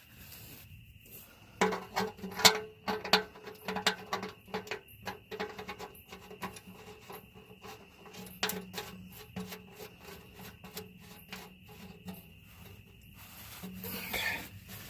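Hand work under a diesel truck: irregular clicks, taps and rubbing, with a faint steady tone behind them.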